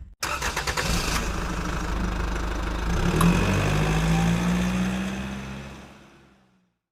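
Car engine running steadily, its pitch rising a little about three seconds in as it is revved, then fading out.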